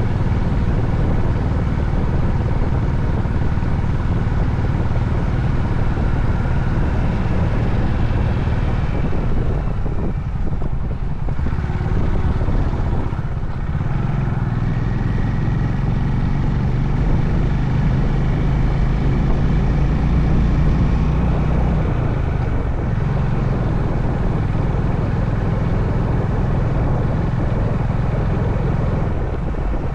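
Honda CB350 H'ness single-cylinder engine running steadily under way, with road and wind noise. The engine note dips and breaks about ten and thirteen seconds in, as with a gear change or easing off, then holds steady again.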